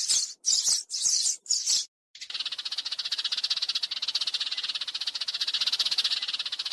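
Sparrow chirping, about two short chirps a second. After a brief gap about two seconds in, it switches to a fast, unbroken rattling trill.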